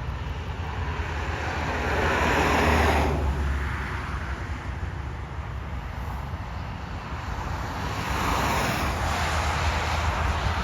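Road traffic passing: two vehicles swell and fade, about three and eight seconds in, over a steady low rumble.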